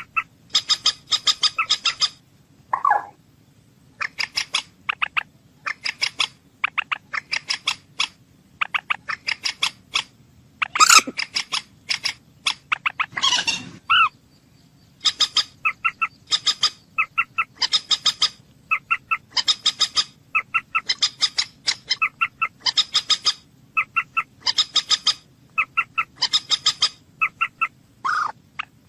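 Moorhen calling: short, sharp notes delivered in quick clusters of several, repeated over and over with brief gaps, and one longer, harsher call about halfway through.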